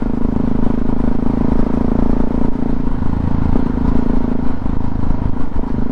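Motorcycle engine running steadily at cruising speed, under a rush of road and wind noise. The engine note softens a little about four and a half seconds in.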